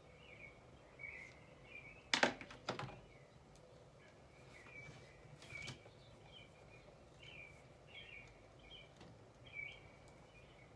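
Faint birdsong ambience: small birds chirping in short, repeated calls over a soft steady hiss. About two seconds in come a pair of sharp knocks, the loudest sounds here, and a fainter one near six seconds.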